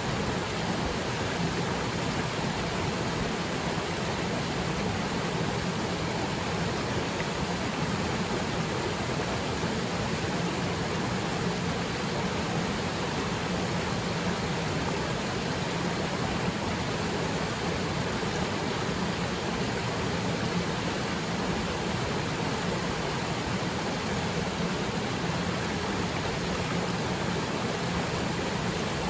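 Steady rush of a small waterfall plunging into its pool: an even, unbroken water noise with no distinct splashes or changes.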